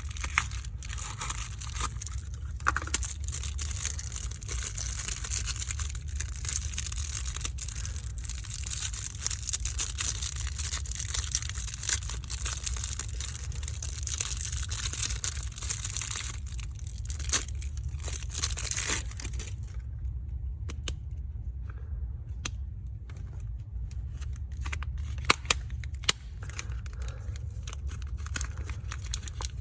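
Soap packaging being crinkled and torn open: dense, crisp rustling and crackling for most of the first twenty seconds, then quieter with scattered clicks and taps. A steady low hum sits underneath.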